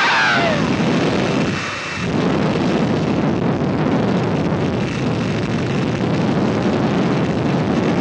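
A loud, continuous rumbling noise with no clear pitch or separate strikes, after a falling wail cuts off just at the start.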